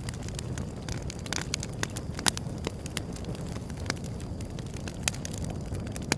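Wood fire burning, with a steady low rumble of flames and irregular sharp crackles and pops from the burning wood, the loudest pop a little over two seconds in.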